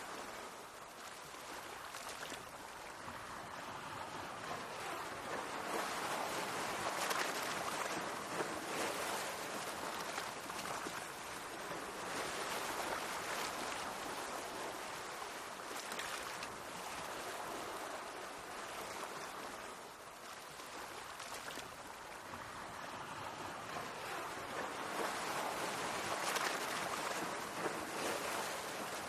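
Sea waves washing against the shore in slow swells, building and ebbing every several seconds with a hissing wash of water.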